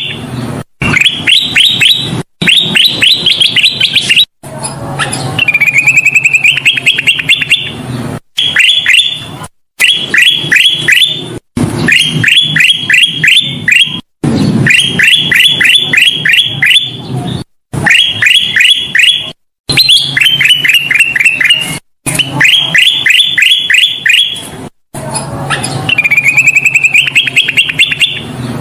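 Kutilang emas, a bulbul, singing vigorously (gacor): repeated phrases of quick, sharp, falling whistled notes, each phrase a rapid run of five to eight notes, broken by short silent gaps about every two seconds. A loud, clean recording made as a lure song for captive birds.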